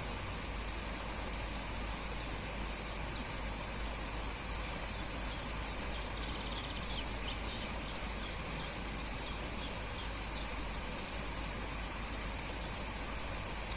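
Waterfall rushing steadily, with a bird singing over it: scattered chirps at first, then from about five seconds in a run of short, quick high notes, about three or four a second, for some six seconds.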